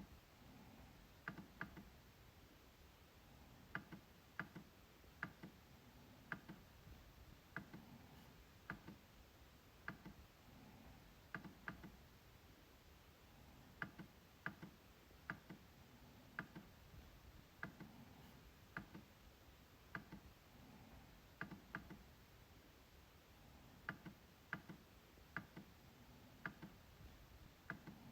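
MacBook trackpad being clicked: sharp, short clicks at an uneven pace, often in close pairs, about one to two a second.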